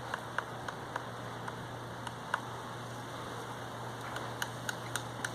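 Woodpecker pecking at wood: irregular sharp taps, sparse at first and coming a few a second near the end, over a steady low hum.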